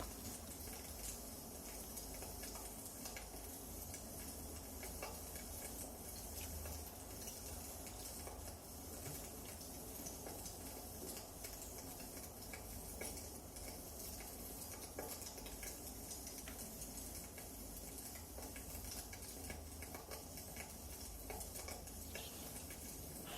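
Wood fire crackling, with irregular small pops and snaps over a steady soft hiss.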